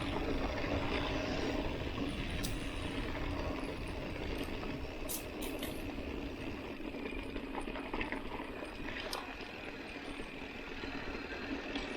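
Mountain bike riding on a dirt road: a steady rumble and hiss of the ride, with a few sharp clicks and rattles from the bike.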